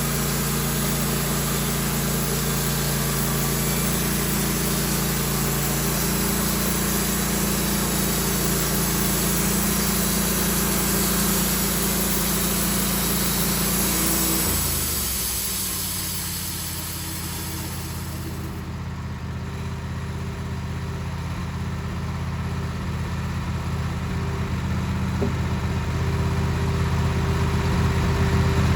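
An engine running steadily at speed, throttling down about halfway through to a lower, slower run, then building back up near the end.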